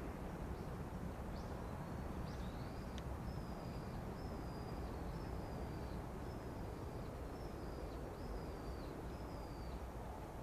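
A bird calling over and over, a series of short high calls, each dropping slightly in pitch, about one a second. A steady low rumble of background noise runs underneath.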